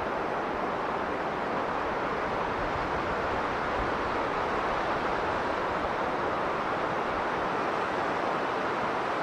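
Strong blizzard wind blowing steadily: an even rush of noise with no distinct gusts or breaks.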